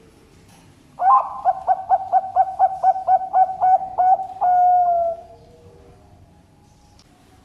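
Zebra dove (Bangkok-bred perkutut) singing one song phrase: a quick run of about a dozen short coos, roughly four a second, ending in a longer held note that falls slightly.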